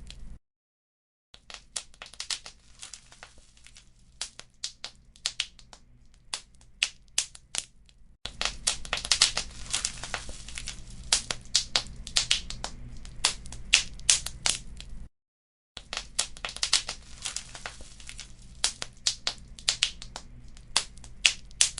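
Wood fire crackling and popping: many sharp snaps over a low rumble. It is quieter for the first several seconds, louder from about eight seconds in, and cuts out completely twice, just under a second each time, near the start and about fifteen seconds in.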